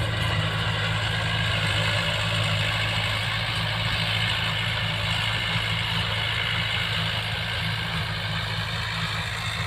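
Yanmar tractor's diesel engine running steadily at an even speed.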